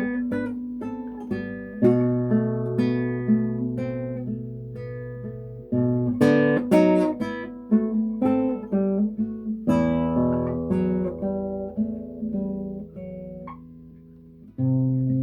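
Solo classical guitar playing a slow melody over plucked bass notes, phrases swelling and dying away, one fading out near the end before the next phrase begins.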